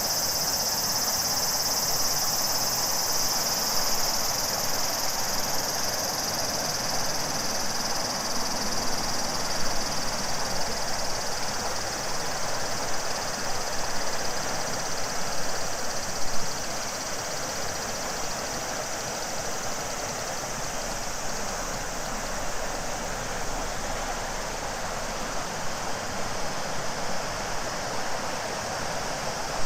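River water rushing steadily over its bed. A high, shrill cicada chorus over it fades out over the first ten seconds or so.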